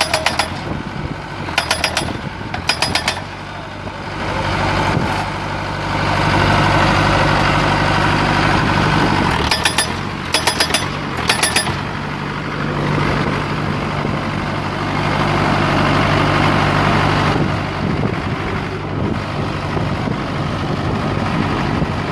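Small pile driver at work: its engine runs steadily while the hammer strikes in short, rapid bursts, a few near the start and another run about ten seconds in.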